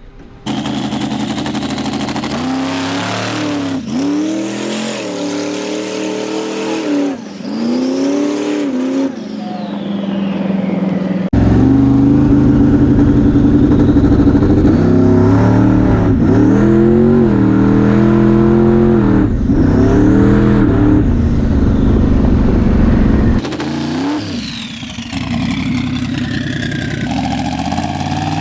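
Twin-turbo big-block V8 drag car on a full-throttle pass: the engine pitch climbs and drops back with each gear change, several times over. Near the end the engine falls away and a high whistle glides down.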